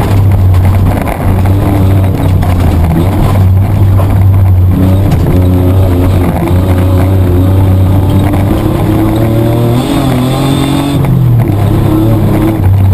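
Mitsubishi Triton's petrol engine heard from inside the cabin, running hard under racing load, its note rising and falling with the throttle. About ten seconds in the pitch climbs, then drops sharply about a second later.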